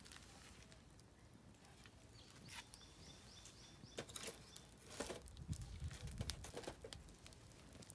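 Oak firewood crackling in a campfire, with scattered sharp pops that come thicker from about four seconds in, over a soft low rumble. A bird sings a short run of repeated high notes about two and a half seconds in.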